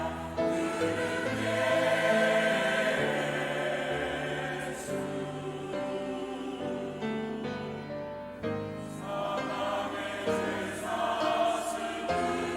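Church choir singing a hymn, several voices together holding and changing sustained notes.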